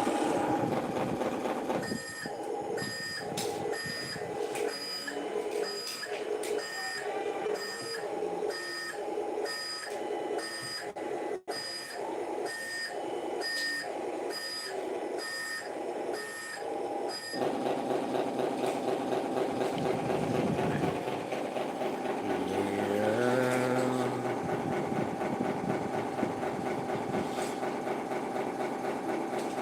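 Electronic sound module of a toy RC truck beeping in a steady reversing-alarm pattern, a little more than one beep a second, until the beeps stop about two-thirds of the way through. A simulated diesel engine sound then runs steadily, with one rev that rises in pitch near the end.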